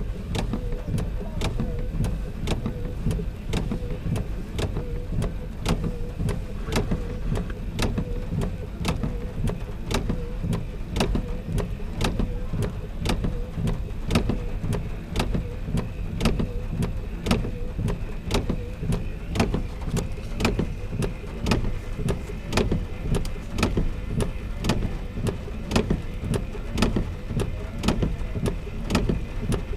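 Steady low rumble of an idling motor vehicle, with sharp clicks repeating evenly about twice a second.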